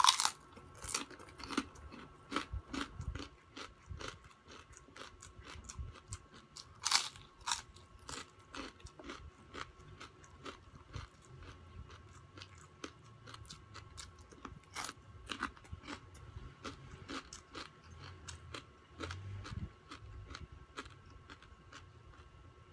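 A person biting into and chewing crispy fried pork (chicharon bagnet) dipped in vinegar. A loud crunch on the first bite, then close-up crackling chews, with further sharp crunches about 7 and 15 seconds in.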